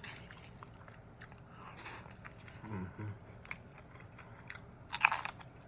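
A person chewing a noodle stir fry with sardines, cheese and pickles close to the microphone, with soft wet mouth clicks and a loud crunchy bite about five seconds in.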